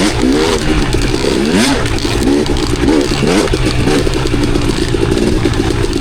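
Enduro dirt bike engine under the rider, revving up and down in quick throttle bursts, then holding a steadier pitch about four seconds in.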